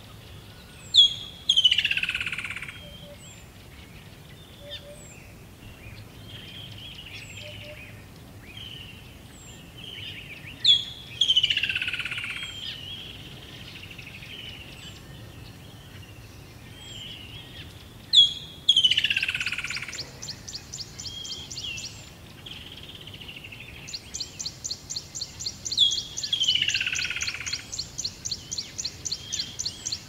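Birds calling. A loud call slurs downward and repeats four times, about every eight seconds, with small high chirps in between. A rapid, evenly pulsed high trill joins briefly after the third call and then carries on through the last few seconds.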